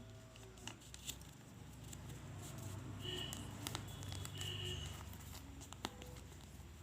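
A sheet of A4 paper being handled and folded by hand: soft crinkling with a few sharp crisp clicks as folds are creased.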